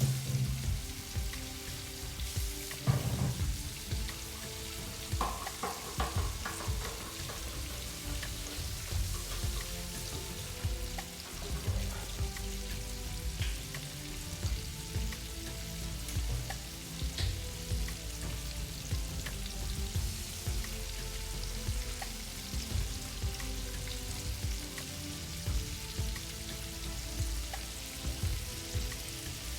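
Food sizzling as it fries in a pan, with scattered small crackles and a few louder knocks in the first several seconds.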